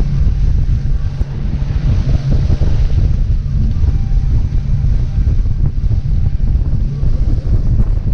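Wind buffeting the microphone of a moving boat, a loud, steady low rumble, with the boat's motor running underneath.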